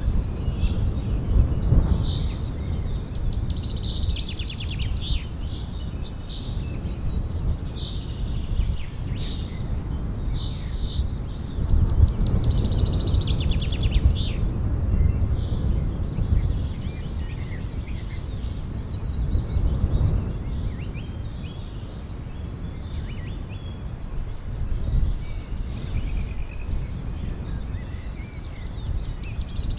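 Birds chirping and trilling again and again over a steady low rumble of background noise.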